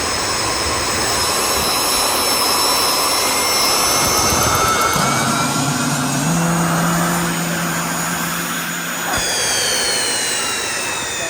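Jet engine running: a loud, steady rush with high whining tones, which slide slightly lower in the last couple of seconds. A lower hum joins for a few seconds in the middle.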